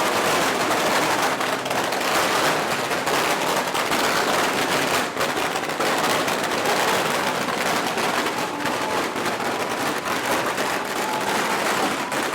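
A long string of firecrackers going off in one continuous, dense crackle.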